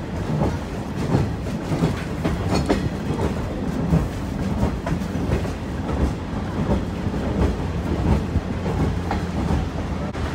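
A train rolling along the track, heard from aboard a car: a steady rumble with irregular clicking and knocking of the wheels over the rails.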